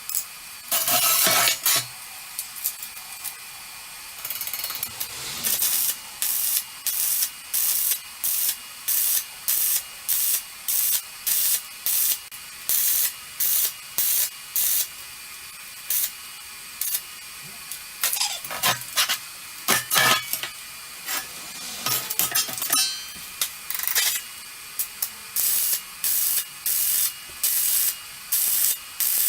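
Semi-automatic (MIG/flux-core) welder arc crackling in short repeated bursts, stitch or tack welding on thin steel, with a few longer beads.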